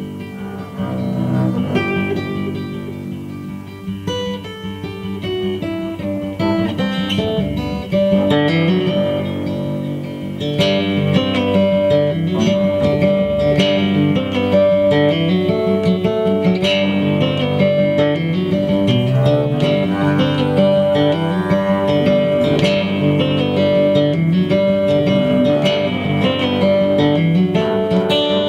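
Live instrumental Americana band music led by guitars, soft at first and growing louder and fuller about ten seconds in.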